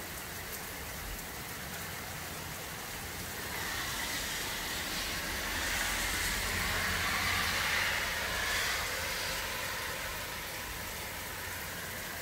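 Heavy rain falling steadily. A car passes on the wet road in the middle, its tyre hiss on the water swelling and fading over several seconds.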